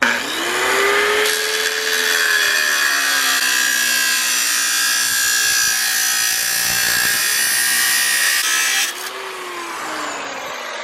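Angle grinder spinning up and cutting through a steel greenhouse pipe: a loud, harsh, steady cutting screech for about seven seconds. Near the end the cut stops and the motor runs on more quietly, its pitch falling.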